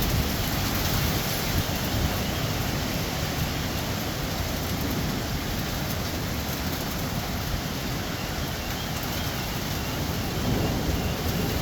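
Heavy rain pouring down steadily in a thunderstorm, an even hiss with a low rumbling undertone.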